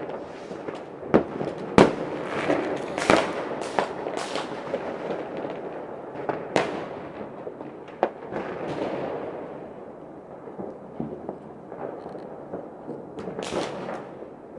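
Fireworks going off all around: repeated sharp bangs over continuous crackling, densest in the first few seconds, thinning out after about nine seconds and picking up again near the end.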